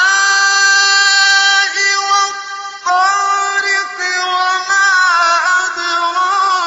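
A single high voice chanting in long, drawn-out, ornamented notes in the style of Quranic recitation, pausing briefly about three seconds in.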